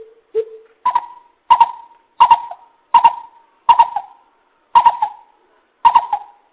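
Greater coucal giving its deep hooting call: two lower hoots at the start, then a run of seven louder, higher hoots spaced a little under a second apart.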